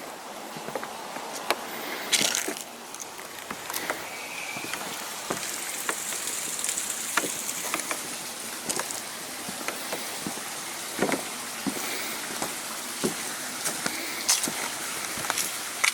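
Footsteps crunching along a gravel railway grade, with irregular clicks and knocks from stones underfoot.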